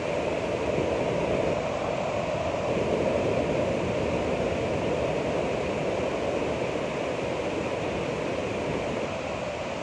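Ocean surf: waves washing in as a steady rush of noise that swells a little about a second in.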